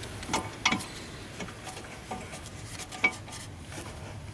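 Metal tools and parts clinking during brake work: a few sharp metallic clicks, the loudest just under a second in and about three seconds in.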